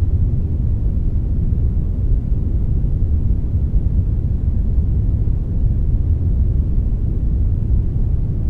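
Synthetic brownish noise, a blend of brown and white noise: a steady, deep rumbling hiss, strongest in the low end, with no change.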